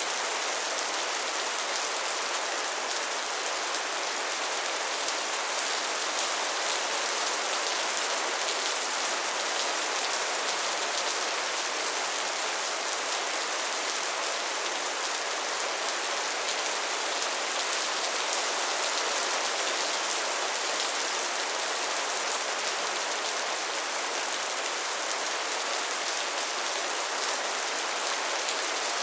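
Steady, even rain falling on tin sheeting: a dense, unbroken hiss with fine drop ticks.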